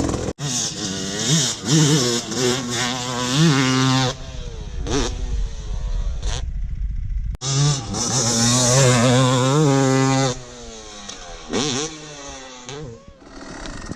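Dirt bike engine revving hard in two runs, its pitch climbing as the throttle is wound on. Each run ends abruptly, and a few shorter throttle blips follow near the end.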